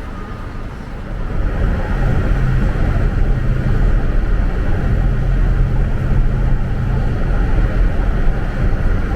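Bus engine and road noise, getting louder about a second in and then holding steady, with a low engine hum through the middle.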